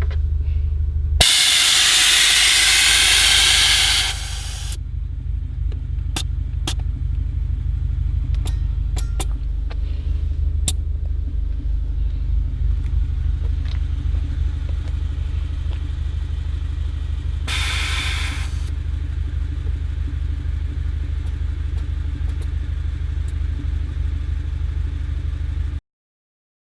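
Steady low mechanical rumble, with a loud rushing hiss from about a second in for some three seconds and a shorter one later, and a few sharp clicks between them. The sound cuts off suddenly near the end.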